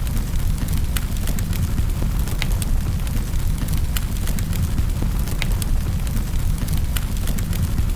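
Wood fire crackling in a fireplace: a steady low rumble of flames with irregular sharp crackles and pops, about one or two a second.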